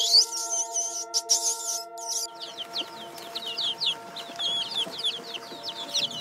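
Eurasian coot chicks peeping: rapid high calls, each sliding down in pitch, several a second. For the first two seconds or so, high twittering chirps come before them. Steady background music with held tones runs underneath.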